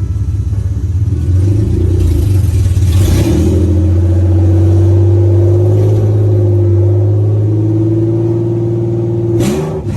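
Nissan VR30DDTT twin-turbo V6 held at a steady raised speed, about 2,000–3,000 RPM, after the revs step up about a second in, then dropping back near the end. The revs are held up to bleed air from the freshly filled cooling system.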